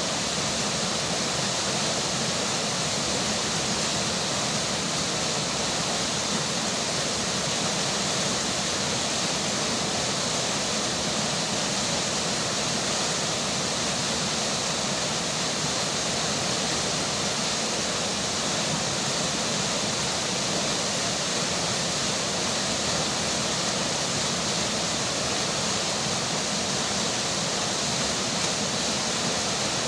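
Flowing river water rushing steadily, an even, unbroken wash of noise with no distinct events.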